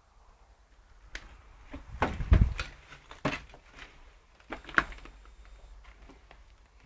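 A series of irregular knocks and thumps, the loudest a heavy low thud about two seconds in, followed by sharper knocks about a second and two and a half seconds later.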